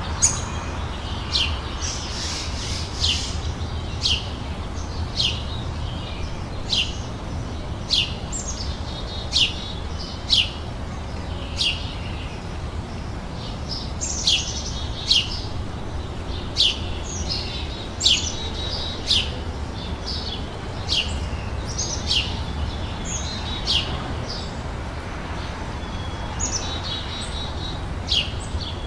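Small songbirds chirping: repeated short, sharp chirps that drop steeply in pitch, about one or two a second, with fainter twittering between them. A low steady rumble runs underneath.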